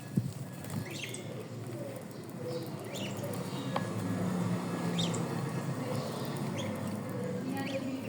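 Pet bird giving short, high chirps every second or two.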